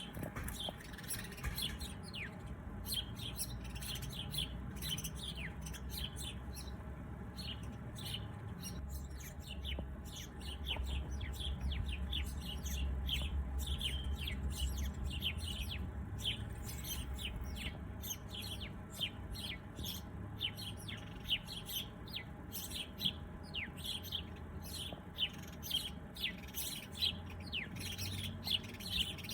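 Songbirds chirping: a busy run of short, high, downward-sliding chirps, several a second, over a low steady rumble.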